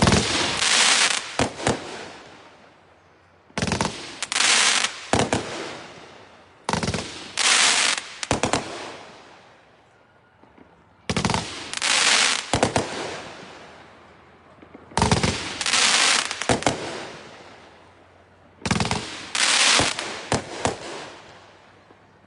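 500-gram consumer firework cake 'Light of Illusion' (42 shots) firing in six volleys, each a quick run of sharp bangs lasting a second or two, spaced about three to four seconds apart, with the echo dying away between them.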